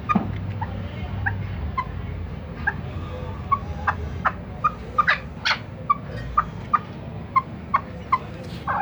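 Birds chirping: many short, separate calls a few times a second, more frequent after the first few seconds, over a steady low rumble.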